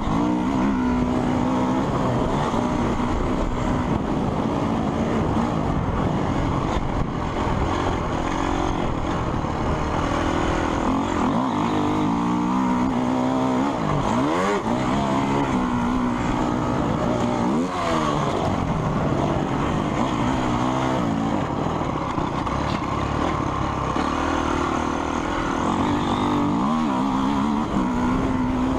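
Motocross motorcycle engines running continuously on a track, their pitch repeatedly rising and falling as the throttle is opened and closed.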